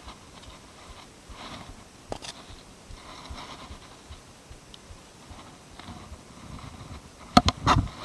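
Faint rustling with a sharp knock about two seconds in, then a quick run of loud thumps near the end.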